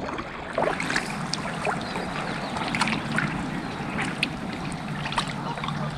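Kayak paddling on a loch: small splashes and drips of water off the paddle and hull, over a steady low hum.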